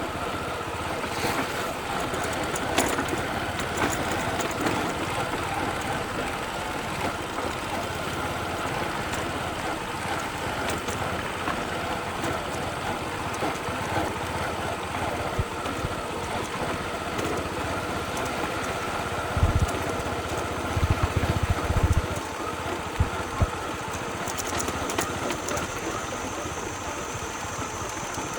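Small motorbike engine running steadily during a slow ride, with a few low thumps about twenty seconds in.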